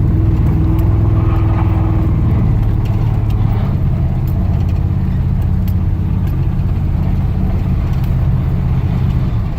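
Mildly built 355 V8 in a 1978 Trans Am idling steadily, heard from inside the cabin with the windows up, through 2.5-inch exhaust with long-tube headers, no H- or X-pipe, and Dynomax Super Turbo mufflers. It is a low, even, mellow drone.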